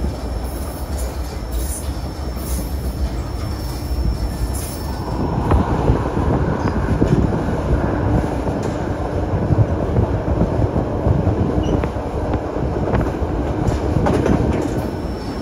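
Narrow-gauge passenger train running along the track, a steady rumble of wheels on rails that grows louder from about five seconds in, with a few faint clicks.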